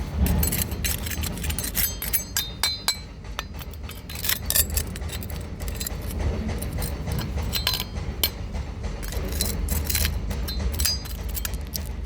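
Many quick, irregular clinks and taps of hard objects striking one another, a few with a short high ring, over a steady low rumble.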